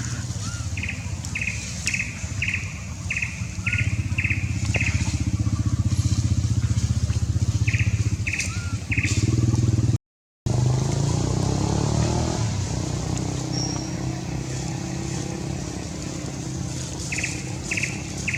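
Steady low engine hum, like a motor vehicle running close by, with a brief break about ten seconds in. Over it come runs of short high chirps, repeating about twice a second.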